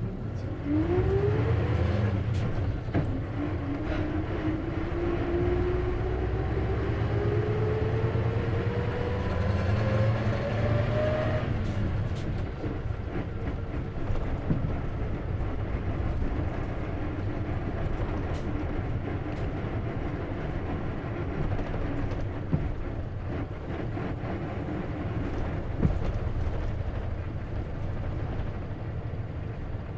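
Isuzu KC-LV380N city bus with a manual gearbox pulling away. A whine rises with speed, breaks at a gear change about two seconds in, then climbs again through the next gear and stops about eleven seconds in, leaving steady running noise. The uploader calls the whine an abnormal noise (異音), shared with other buses, which may be a symptom that manual-transmission buses can develop.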